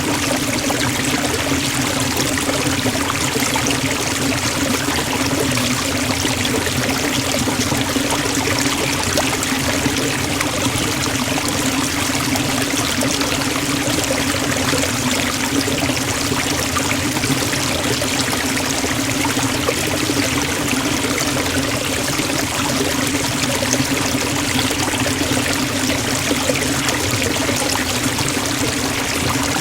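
Waterfall splashing into a pool: a steady, unbroken rush of falling water with a low rumble under it.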